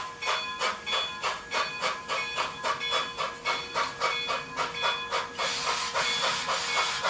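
Sound unit of a model steam locomotive playing exhaust chuffs at about four a second, with a steady hiss of steam coming up about five seconds in.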